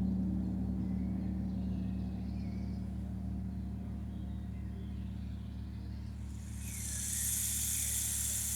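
Large gong struck just before, ringing on with a deep steady hum over a low rumble, slowly fading. Faint bird chirps sound above it, and a high hissing shimmer swells in about two-thirds of the way through.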